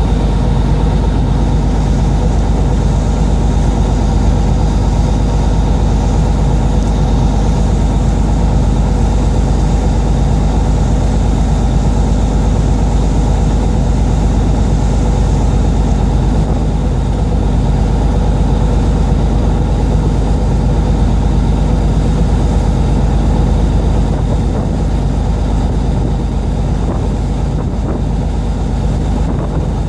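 A fishing boat's engine running steadily and loudly, easing off a little near the end.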